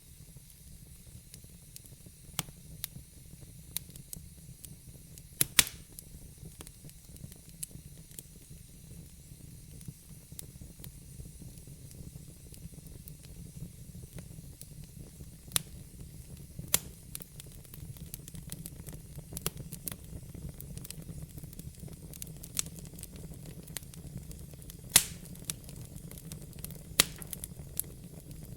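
Wood fire burning in a fireplace: irregular sharp crackles and pops from the logs over a steady low rumble and faint hiss of the flames, with the loudest pops about five seconds in and near the end.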